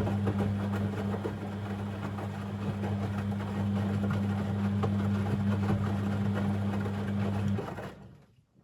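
Beko WML 71433 NP washing machine running, a steady low hum with a busy rattle over it, which stops just before the end.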